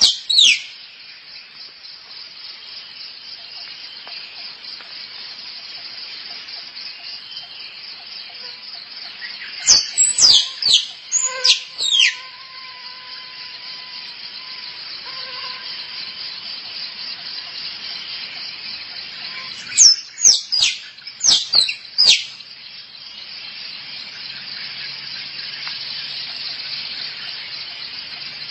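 Squirrel mating calls: three bursts of sharp squeaks, each note falling steeply in pitch, about ten seconds apart. A steady, high, rapidly pulsing trill runs beneath them.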